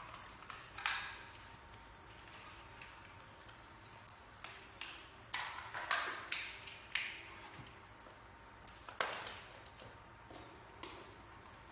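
Irregular sharp taps and knocks, a dozen or so, each ringing briefly, the kind made by hard objects being handled or set down.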